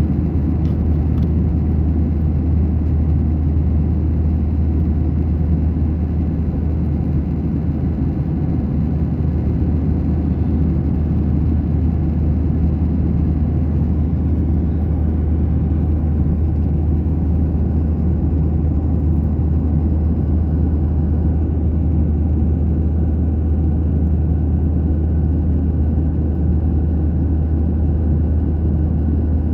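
Airliner cabin noise: a steady low rumble and hum from the jet engines and the air rushing past the fuselage, unchanging throughout.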